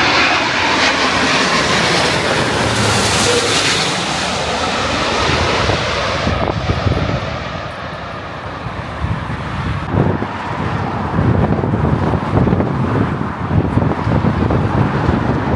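Airbus A350-1000 jet passing low overhead on approach: loud engine noise with a strong hiss that dies away about six seconds in, leaving a lower rumble as it moves off. Gusts of wind buffet the microphone in the second half.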